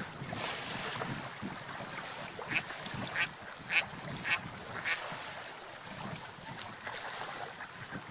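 Domestic duck quacking about five times, roughly half a second apart, over a steady background hiss.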